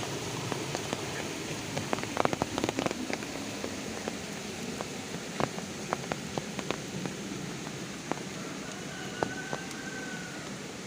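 Heavy rain falling in a steady hiss, with separate large drops or drips striking a hard surface in sharp taps, a quick cluster of them about two seconds in.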